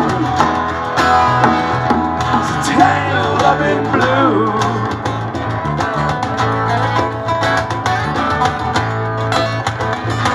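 Live band playing the instrumental opening of a country-bluegrass song: acoustic guitar strumming over a steady bass line, with a wavering lead melody above.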